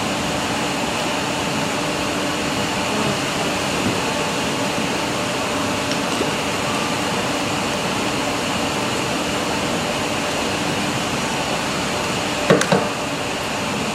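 Steady mechanical whirring hum, with two sharp knocks near the end.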